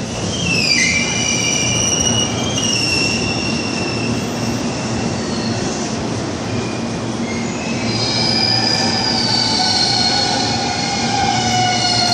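Tobu Railway limited express Ryōmō train running through the station, its steel wheels squealing on the rails in several high tones over a steady rumble. About eight seconds in, a lower squeal joins and slowly falls in pitch.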